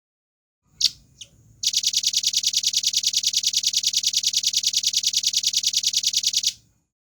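Velvet-fronted nuthatch calling: two sharp high notes, then a fast, very even rattle of about ten notes a second that runs for nearly five seconds and stops suddenly.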